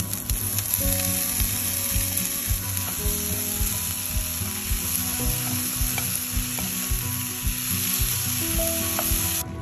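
Diced onion and cubed potato sizzling in hot oil in a nonstick frying pan while a wooden spoon stirs them. The sizzle is steady and cuts off suddenly near the end.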